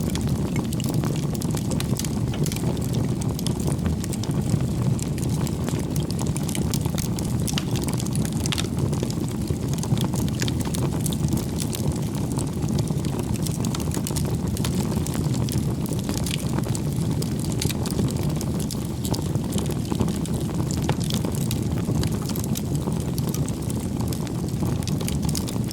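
Wood campfire burning: a steady low rumble with frequent small sharp crackles and pops from the burning firewood.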